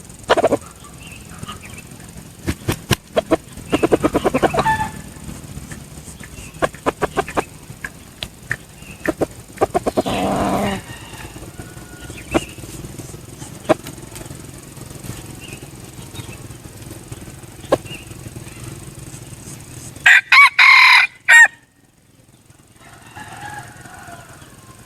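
Red junglefowl rooster crowing, with runs of quick clicking calls and wing flaps between crows; the loudest call comes near the end.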